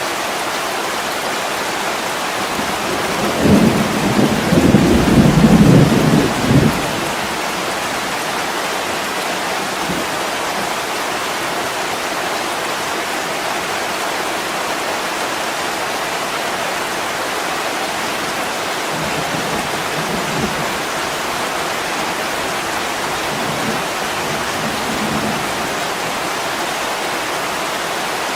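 Heavy rain falling steadily on a window. About three seconds in, thunder rumbles low for roughly three seconds, and two fainter low rumbles come later.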